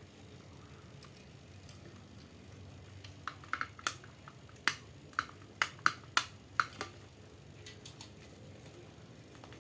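A quick run of sharp clicks and taps, about a dozen in four seconds, from small hard parts being handled, then quieter again.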